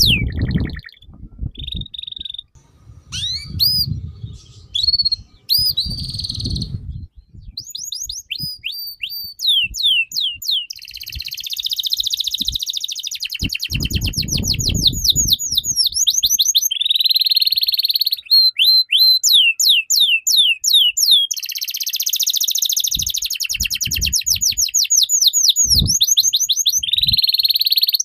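A songbird singing loudly and almost without pause: fast series of repeated falling whistled notes alternating with long bouts of harsh rasping chatter. This is the kind of vigorous song used as a 'pancingan' to stir other birds into singing.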